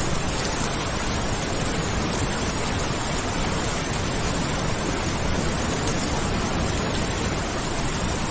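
Steady rain, an even hiss with no thunder or other distinct sounds.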